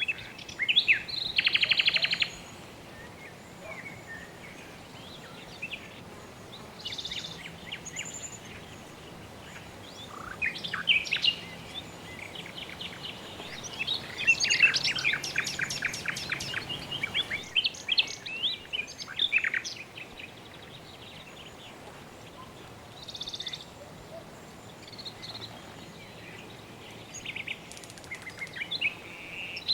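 Several birds chirping and calling over a soft, steady background hiss. There is a rapid trill about a second in, and a long run of quick chirps around the middle.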